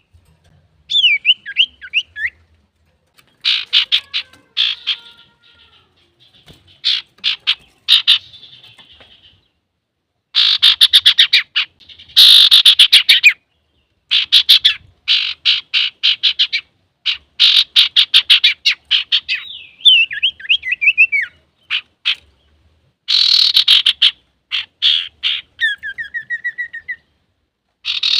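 Male common iora (cipoh) singing: bursts of rapid chattering trills, each lasting about a second, with short pauses between them and a few sweeping whistled notes mixed in, some of these in the last few seconds.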